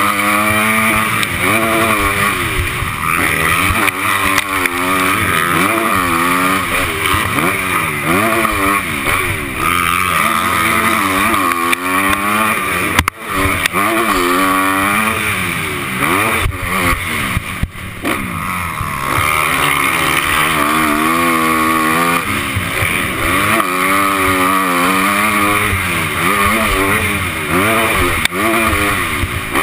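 Honda 250-class motocross bike engine heard from an onboard GoPro, revving up and down over and over as the rider accelerates, shifts and rolls off the throttle around the track. The engine drops away sharply for a moment about 13 seconds in and again about 18 seconds in.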